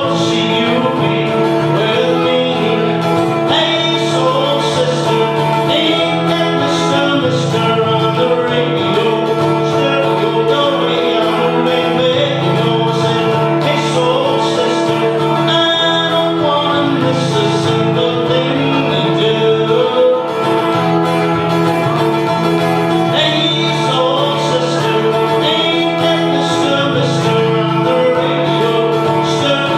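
A man singing a pop song to a strummed acoustic guitar.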